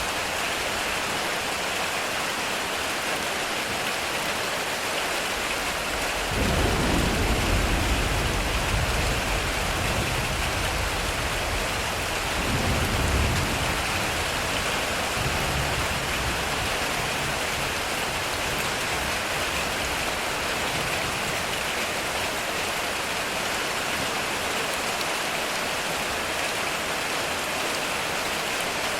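Heavy rain falling steadily on a metal roof, a constant hiss. A low roll of thunder rumbles in a few seconds in and fades over several seconds, and a second, shorter rumble follows a little before midway.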